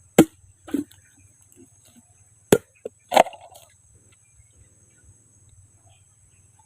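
A blade chopping into a young coconut (buko): four hard hacks and one lighter one over about three seconds.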